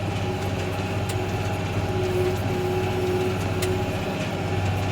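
New Holland 8970 tractor's diesel engine running steadily under load, a constant low hum with a steady higher whine over it and a few faint clicks and rattles.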